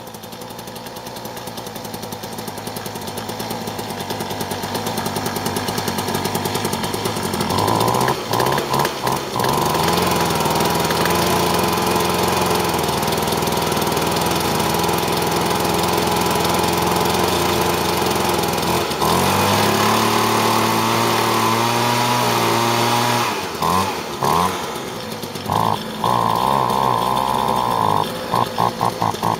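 Homelite Yard Broom 2 two-stroke leaf blower running just after a cold start in 5-degree weather, growing louder over the first several seconds. It then runs higher and steady, with the throttle let off and opened again several times in short dips and surges, most of them near the end.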